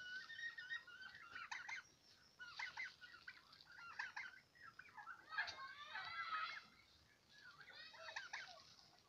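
Domestic turkeys calling in about six short bursts of high clucks and chirping calls, with brief quiet gaps between them.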